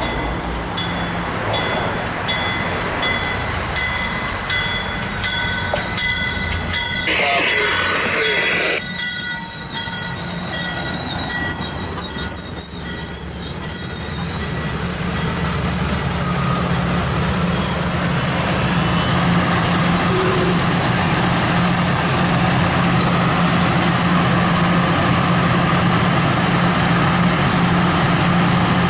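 MARC commuter train rolling past on the track: wheels clicking over rail joints about once a second, then a long high squeal from the wheels for most of the first twenty seconds, fading out. Under it the locomotive's diesel engine runs with a steady low hum that grows louder in the second half.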